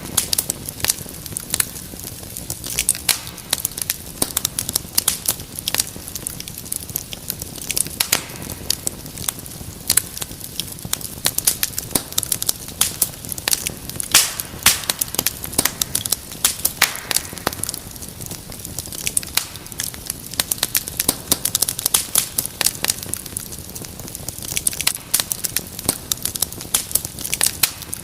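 Wood fire crackling in a fireplace, with many irregular sharp pops and snaps over a low steady hiss.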